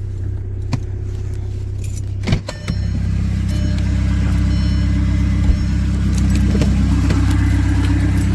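VW Jetta TDI's four-cylinder turbodiesel engine running under way, with a knock about two seconds in, after which the engine note grows louder and fuller as it takes on more load. Light clicks and rattles sound over it.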